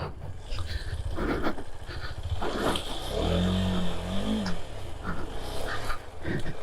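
Motorcycle engine running through an off-road water crossing, its pitch rising and falling about halfway through.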